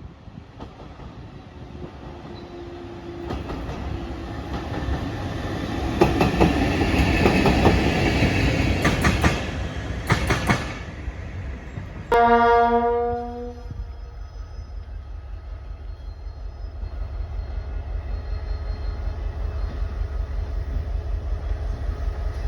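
A train rolling past with a rising rush and clicking of wheels over rail joints. About halfway through, a locomotive horn sounds once, a single steady chord lasting about a second and a half. A low engine rumble with a rapid, regular throb then builds toward the end.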